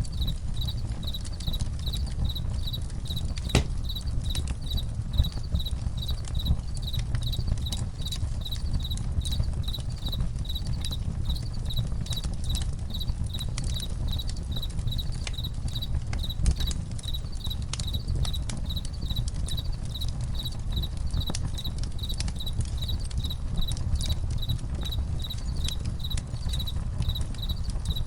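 Crickets chirping in an even, unbroken rhythm, about one and a half chirps a second, over the low rumble of a campfire with occasional sharp crackles and pops.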